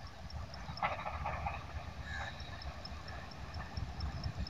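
Faint, uneven low rumble of a diesel express train still far off down the line, under a high insect-like ticking about four times a second. A short croaking call comes about a second in.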